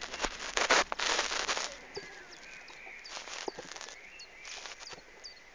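Loud rushing noise at the start, dying away after about a second and a half, then a bird chirping: short high chirps repeated every half second or so.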